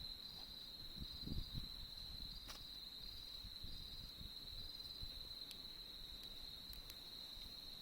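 Autumn crickets singing a steady high trill with a faint regular pulse. A few sharp crackles from the campfire come through, and there is a brief low rustle about a second in.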